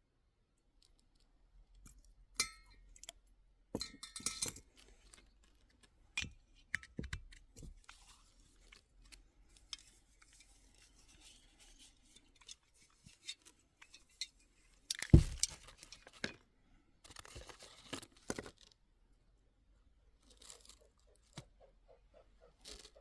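Scattered handling sounds: clicks, light clinks, crunching and rustling of things being moved about, with one loud knock about fifteen seconds in.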